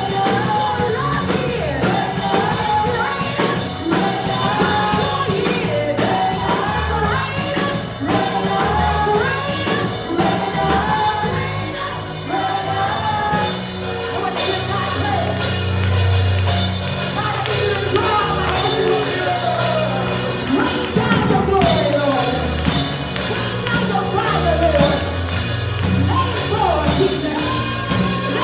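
Live worship music: a band with bass and drums playing while voices sing.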